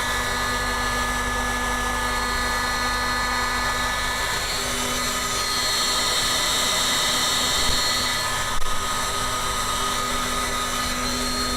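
Heat guns blowing steadily to thaw an iced-up walk-in freezer evaporator, a constant whine with a hiss of air, with a couple of faint knocks about eight seconds in.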